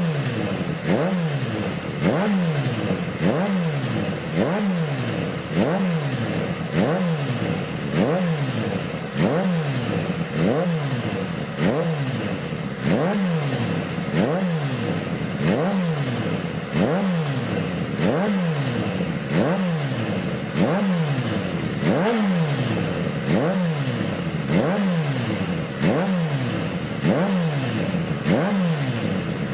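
Kawasaki H2 SX's supercharged inline-four revved through an aftermarket exhaust, with the throttle blipped about once a second: each time the revs jump up sharply and then fall back, over and over. This is a stationary exhaust-sound test.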